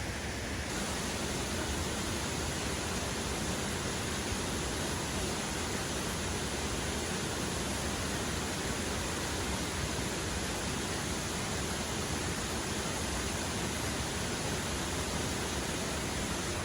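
Waterfall, its water falling and rushing in a steady, even hiss that brightens slightly under a second in.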